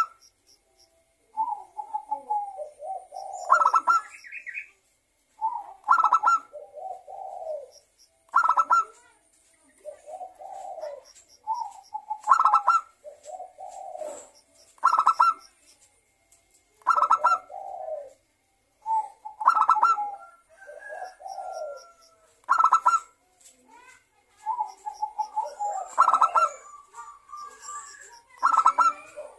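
Zebra dove (perkutut) singing its cooing song: the same phrase repeated about every two to three seconds, low soft coos followed by a louder, higher rattling note.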